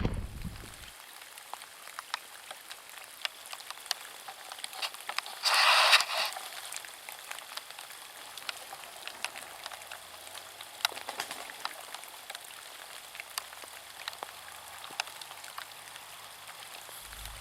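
Rain falling, with many scattered raindrops ticking close by. A short, louder rush of noise comes about five and a half seconds in.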